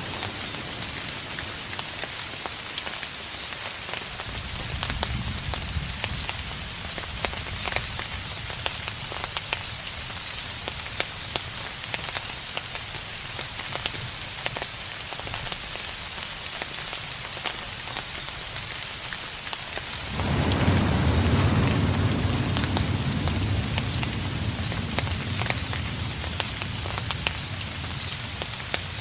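Steady rain falling with individual drops ticking, and distant thunder rumbling. A low rumble comes in about four seconds in, then a louder roll starts suddenly about twenty seconds in and slowly fades.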